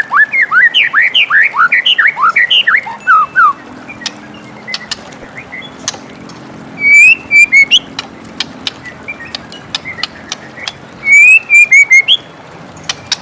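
White-rumped shama singing: a fast run of short rising whistled notes, then two brief whistled phrases about 7 and 11 seconds in, mixed with sharp clicking notes.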